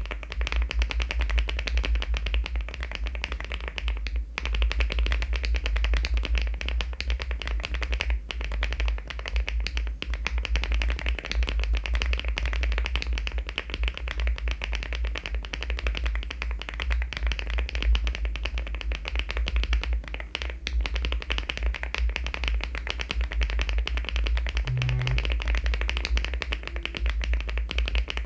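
Fast continuous typing on a LEOBOG Hi75 aluminium mechanical keyboard fitted with HMX switches and Cherry-profile keycaps, the key strokes running together into a dense clatter, with brief pauses about 4, 8 and 20 seconds in.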